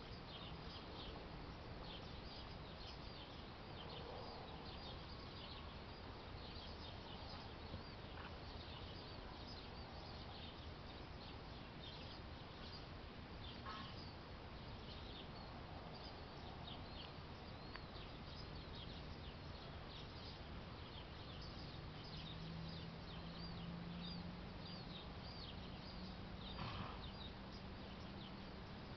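Faint outdoor ambience of small birds chirping, short high chirps repeating over and over. A low steady hum joins about two-thirds of the way in.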